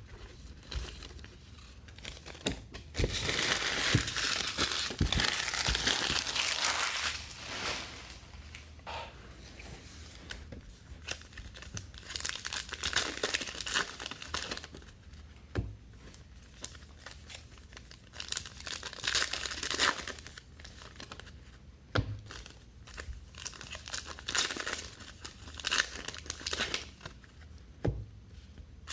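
Trading card packs being torn open and their wrappers crinkled by hand, with a long loud stretch of rustling about three seconds in and several shorter bursts later. A few sharp taps come in between.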